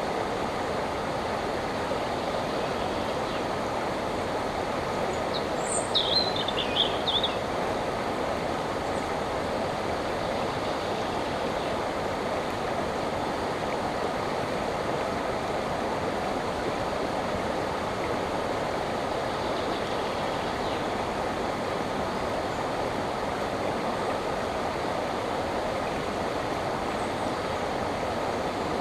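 River water flowing in a steady, even rush, with a short bird call about six seconds in.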